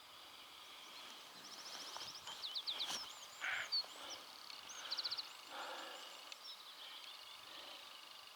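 Wild birds singing: quick high trills and short curving chirps, with a single sharp click about three seconds in.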